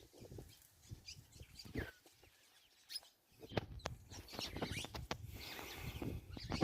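Birds chirping: scattered short calls and sharp clicks, with one short falling whistle about two seconds in and a brief quiet spell just after.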